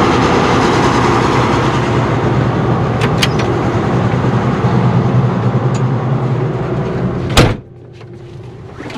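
Combine harvester running steadily during rice harvest, a loud low hum with a few light clicks. Near the end a single sharp knock, and the sound drops abruptly to a faint hum.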